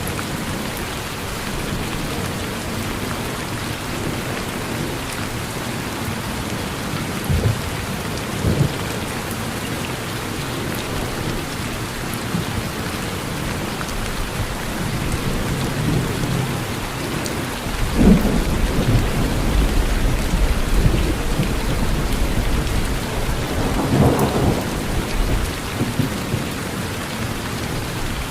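Steady rain falling on a porch, with thunder: two short cracks about a quarter of the way in, then a long low rumble starting about two-thirds through and swelling again near the end.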